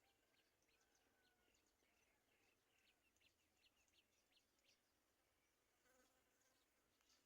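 Near silence, with faint short high-pitched chirps scattered throughout.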